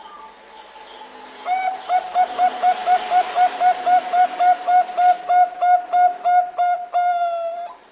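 Zebra dove (Bangkok perkutut) singing: a fast run of short cooing notes, about four a second, ending in one longer drawn-out note, over a steady hiss.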